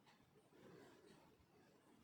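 Near silence: a pause in the narration with only faint background hiss.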